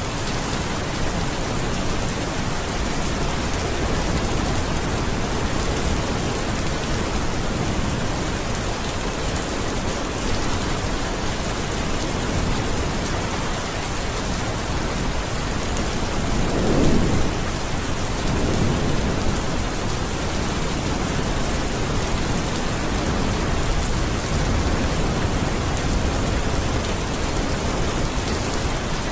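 Steady rain falling, an even hiss throughout, with a low rumble of thunder a little past halfway and a fainter one just after.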